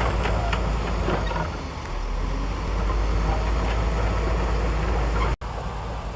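Shantui DH17C2 bulldozer's diesel engine running under load with a heavy low rumble and occasional light clanks. The sound cuts out abruptly for an instant about five seconds in, then carries on a little quieter.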